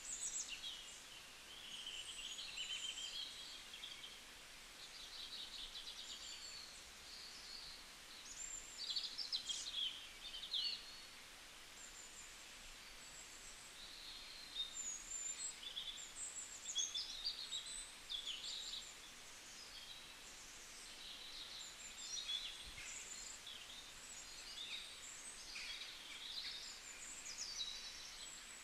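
Several small birds chirping and trilling, high-pitched and overlapping, over a faint steady background hiss.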